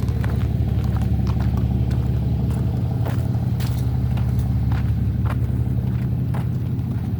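A steady, loud low mechanical hum, like an engine running, with scattered small clicks and taps over it.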